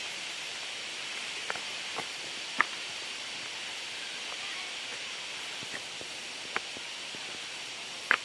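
Steady rushing hiss of a waterfall, with a few sharp clicks scattered through it.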